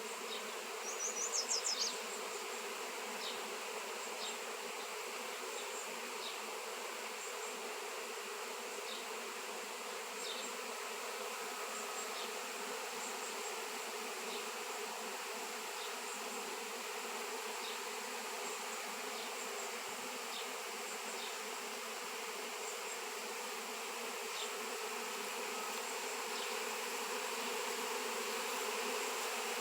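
Steady buzzing hum of a swarm of honey bees. About a second in, a brief rapid series of high chirps rises above it.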